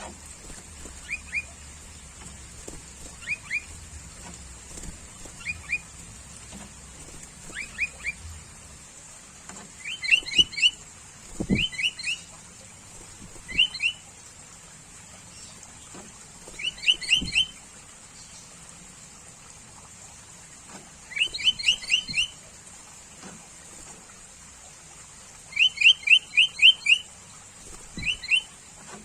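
Sooty-headed bulbul calling: quick short rising whistled notes in clusters of two to five, repeated every couple of seconds and louder in the second half.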